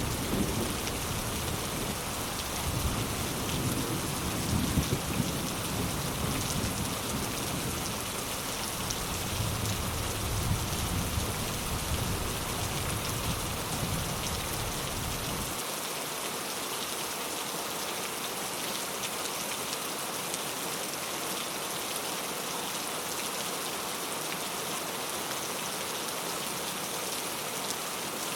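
Heavy rain pattering on mango leaves, a dense steady hiss. A low rumble runs underneath for about the first half and stops abruptly just past the middle.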